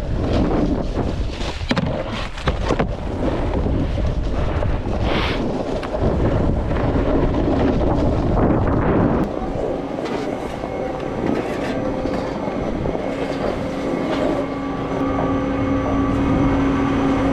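Snowboard riding over snow, with scraping and rushing from the board and wind on the microphone. From about ten seconds in, a steady mechanical hum with several held tones joins it.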